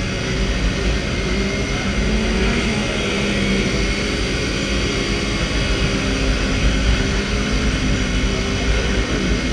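Motorcycle riding on the road: a steady engine drone with heavy wind rumble on the microphone.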